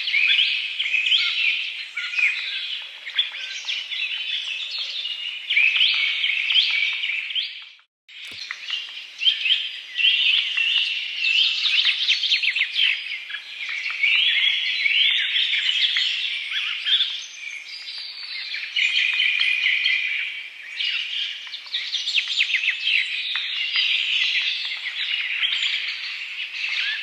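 A dense chorus of many small birds chirping and trilling at once. About eight seconds in, it drops out for a moment, as at an edit, then resumes.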